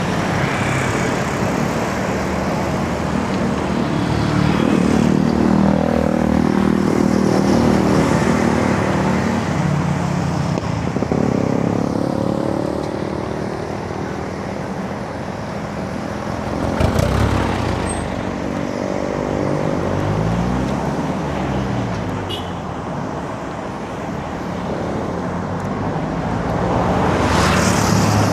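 Road traffic heard from a bicycle: motor vehicles pass close by over steady road noise, their engine notes rising and falling in pitch. There is a short knock about two thirds of the way through, and the noise swells near the end.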